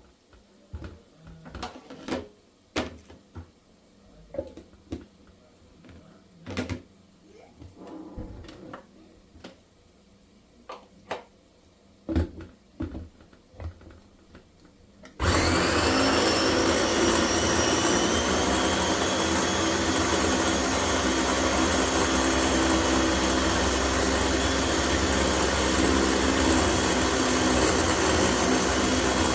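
A few light clicks and knocks of kitchen items being handled, then about halfway through an electric blender switches on. Its motor whine rises for a couple of seconds as it spins up, then it runs steadily and loudly.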